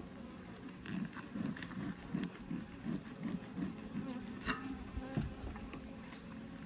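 Honeybees buzzing steadily in an open Layens horizontal hive, with a run of short soft knocks for a few seconds in the middle and one sharp click about four and a half seconds in.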